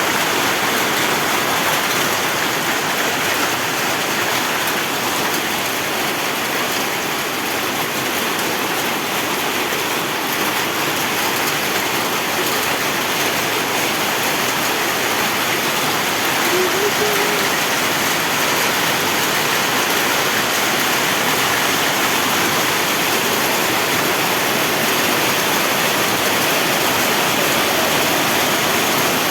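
Hailstorm: heavy rain and hail falling steadily, a dense even hiss with no letup.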